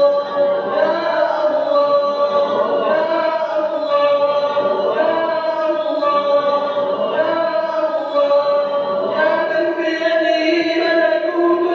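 A man's voice chanting an Arabic supplication in a slow, melodic style, with long held notes that bend gently in pitch.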